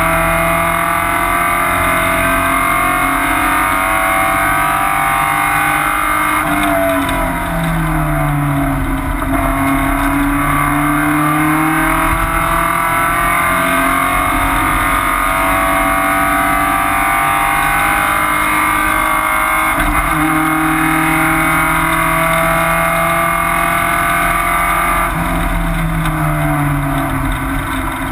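Porsche 944 race car's four-cylinder engine running hard at high revs, heard from inside the stripped cabin. The revs drop sharply about seven seconds in and again near the end, then climb back up.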